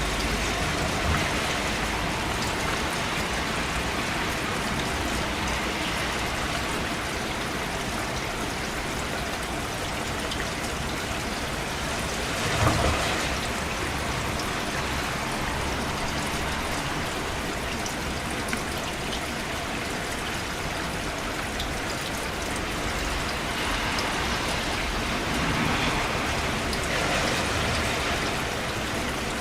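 Steady rain falling, with a brief louder swell about halfway through.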